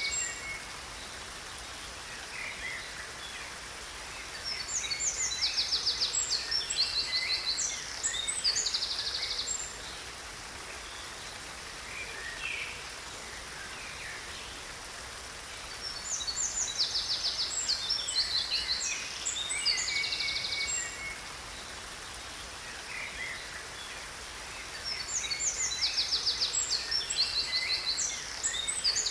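Songbirds chirping and singing rapid high trills in three similar bursts about ten seconds apart, over the steady rush of a waterfall.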